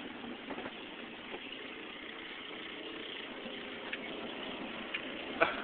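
Steady running noise of a vehicle heard from inside the cabin, engine running, with one brief sharp sound near the end.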